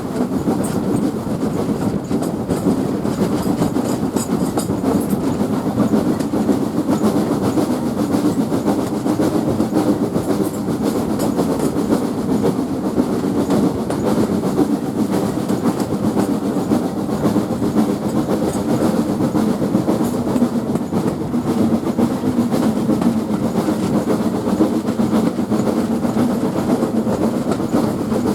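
Steam-hauled train running along at steady speed: a continuous rumble and clatter of wheels on the rails.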